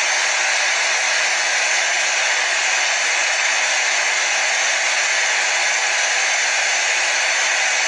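Hair dryer running steadily: an even, unbroken hiss that holds the same pitch and level throughout.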